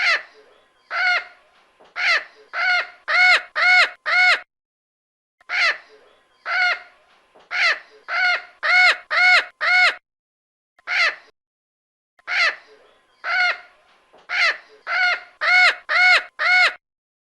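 A bird calling with loud, harsh, repeated calls in three bouts, each bout speeding up into a quick run of calls.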